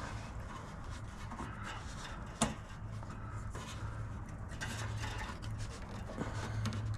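Faint rubbing and scraping of hand work as a fuel line is pushed onto the snowblower carburetor's fuel inlet, with one sharp click about two and a half seconds in.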